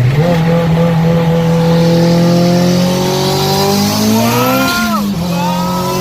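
Big-turbo Honda Civic EG hatchback's engine pulling hard under full throttle. The revs climb steadily through one gear, drop sharply at an upshift about five seconds in, then climb again in the next gear.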